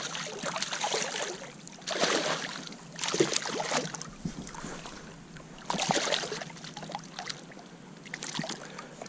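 Water splashing in short, irregular bursts beside a kayak as a hooked smallmouth bass is brought in.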